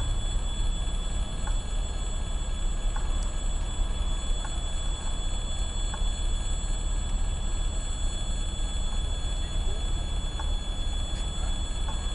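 ChME3 diesel shunting locomotive running with a railway car: a steady low rumble, with faint regular clicks about every second and a half.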